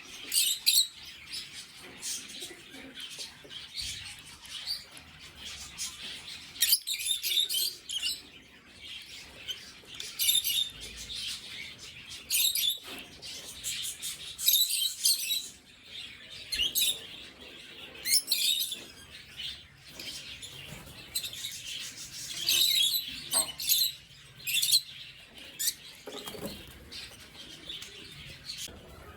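Lutino lovebirds chirping in short bursts of high, shrill calls every second or two.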